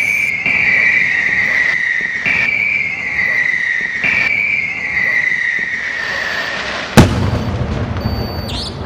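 Fireworks: shrill whistles, each sliding slowly down in pitch, start up one after another about every two seconds. Then a single sharp loud bang of a shell bursting about seven seconds in, followed by crackling.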